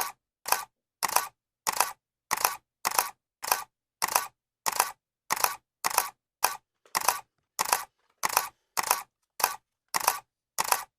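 Camera shutter clicking over and over at an even pace, just under two clicks a second, each click a quick double snap.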